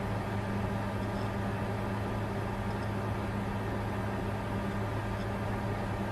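Bitcoin-mining computer running: a steady whir of cooling fans over a low, even hum.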